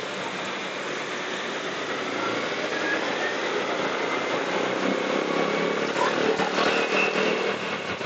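Motorcycle riding in traffic: the engine running under a steady rush of road and wind noise, growing a little louder after about six seconds.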